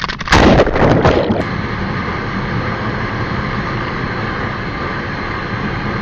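Motorcycle crash: a sudden loud impact with about a second of clattering noise, then a steady rushing noise.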